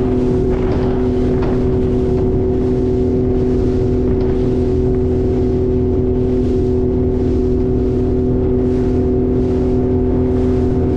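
Speedboat engine running at a steady pitch, under a rush of wind and water noise that swells and fades in an even rhythm, about one and a half times a second.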